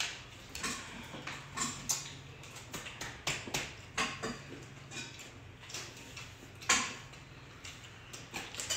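Close-up eating sounds of extra crispy fried chicken being bitten and chewed: irregular crackly crunches and clicks, one louder crunch about two-thirds of the way through. A low steady hum runs underneath.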